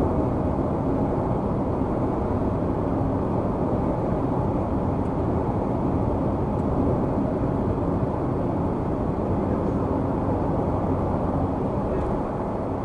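Steady road and engine noise of a car cruising at highway speed, heard from inside the cabin: an even rumble and tyre roar with a faint constant hum.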